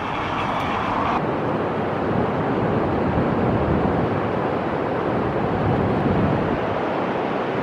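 Steady rushing of ocean surf, with wind buffeting the microphone.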